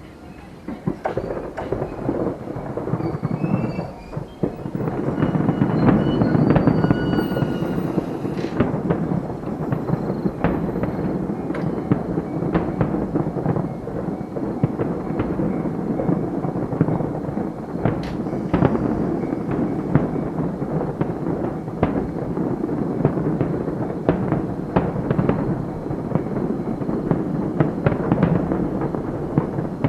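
Fireworks display in full barrage: shell bursts booming and crackling almost without pause, with many sharp bangs over a continuous rumble. It builds up over the first five seconds or so, with a few short whistling tones among the first bursts.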